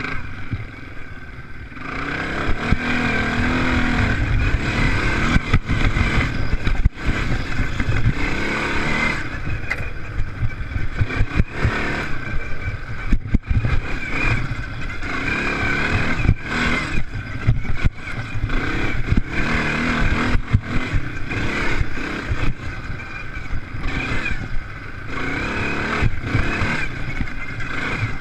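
Off-road race engines of motocross machines revving and easing off in turn, several at once, getting louder about two seconds in.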